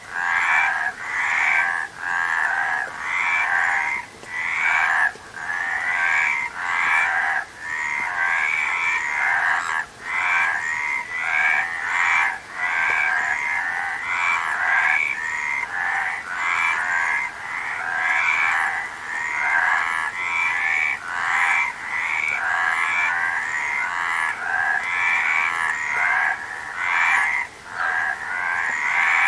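A chorus of frogs croaking, many overlapping pulsed calls following one another with only brief gaps.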